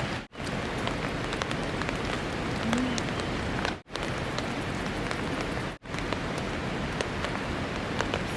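Steady rain with many individual drops ticking sharply close by, cutting out briefly three times.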